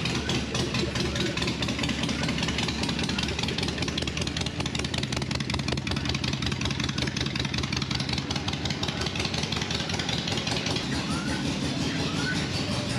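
A vehicle engine running steadily with a fast, even pulse. A few short rising chirps come in near the end.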